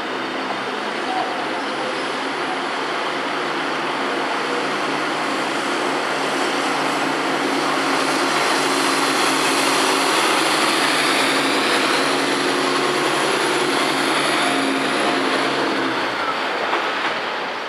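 A train running through the station: a steady rushing noise over a low, even hum, growing louder to its loudest about ten seconds in, then dropping off near the end.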